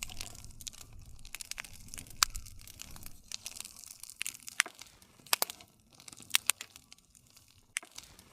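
Wood campfire crackling, with irregular sharp pops and snaps of burning wood over a low rumble of the flames that fades after about five seconds.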